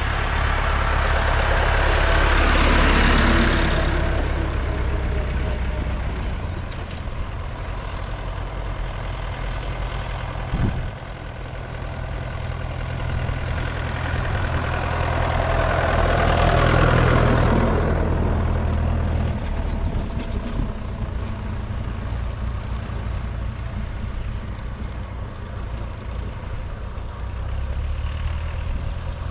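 Vintage tractors driving past one after another, their engines running steadily, with two passing close and loud, one about three seconds in and another a little past halfway. A single short knock sounds at about eleven seconds.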